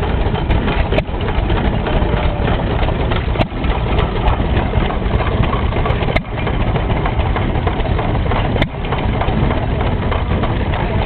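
1917 Fairbanks Morse Headless hit-and-miss stationary engine running under belt load, driving an early washing machine. A steady mechanical chugging is broken by a sharp crack about every two and a half seconds, four times.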